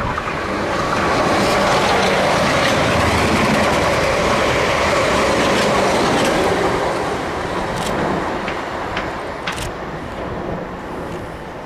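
South Western Railway Class 444 Desiro electric multiple unit passing the platform at speed. The rush of wheels and running gear builds within about a second and stays loud for about six seconds, then fades as the train draws away, with a few sharp clicks near the end.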